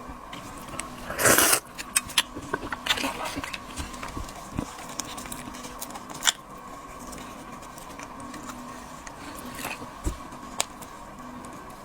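Close-up eating and handling of seafood: scattered small clicks and crackles of shells and utensils, with one louder noisy crunch or rustle about a second and a half in.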